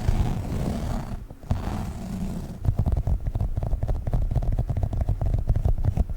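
Globbles sticky gel balls squished and rubbed right against the microphone: a low rubbing rumble that dips briefly a little after a second in, then, from about halfway, a dense sticky crackle of fine clicks.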